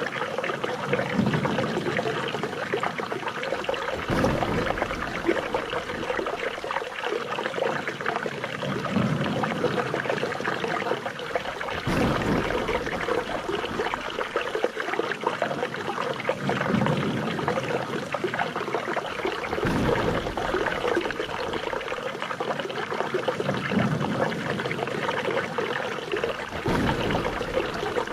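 Running water trickling and splashing steadily. A low swell recurs about every eight seconds.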